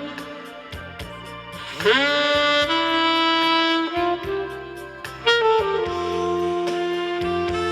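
Saxophone playing long held notes over a backing track with a steady drum beat. About two seconds in, it scoops up into a loud sustained note.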